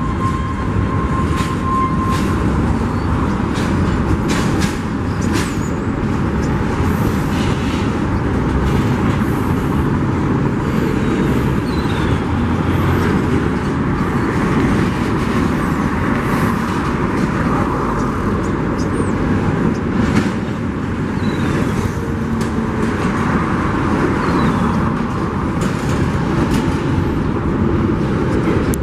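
Union Pacific freight train cars rolling past: a steady loud rumble of wheels on rail, with scattered clicks and clanks throughout.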